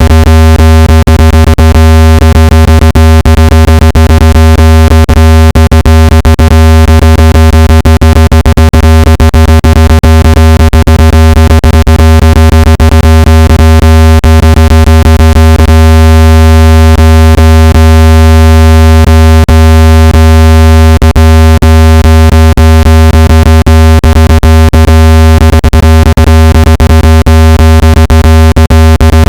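Loud, steady, low buzzing electronic tone with a dense row of overtones, broken by frequent short clicks: a synthetic speaker-cleaning tone, meant to vibrate dust and moisture out of a phone speaker.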